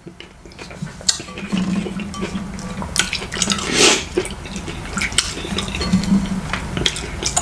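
Eating sounds: utensils clicking against a dish, with wet mouth sounds of eating a brothy meal and one longer wet swell a little before the middle.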